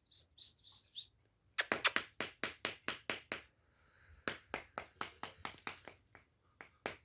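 Rapid series of short, high-pitched animal calls, about four a second, after a few thinner squeaks in the first second, with a short pause near the end.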